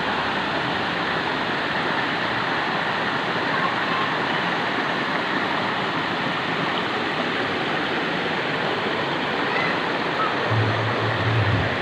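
Steady rush of flowing water from a spring-fed stream, even and unbroken, with a low hum coming in near the end.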